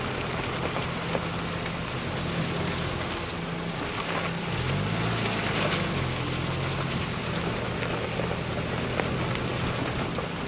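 A motor vehicle's engine running steadily under a wash of road or wind noise, its note shifting about halfway through.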